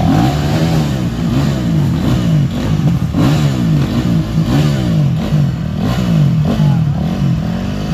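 Dirt bike engines, at least two at once, revving up and down over and over, their pitch rising and falling every second or so.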